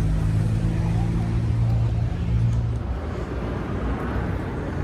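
A car engine running at low, steady revs close by, a deep rumble that drops away about three seconds in, leaving a steady outdoor noise.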